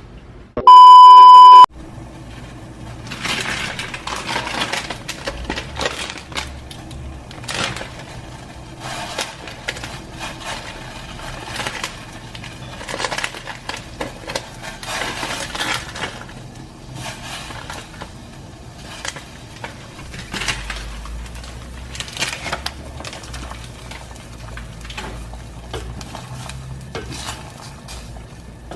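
A loud electronic beep lasting about a second near the start, then the clatter of kitchen work: dishes, pots and utensils knocking and clinking in many short irregular strokes.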